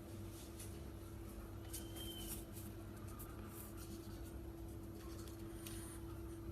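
Faint scratching and light ticks over a steady hum, with one short, faint high peep about two seconds in.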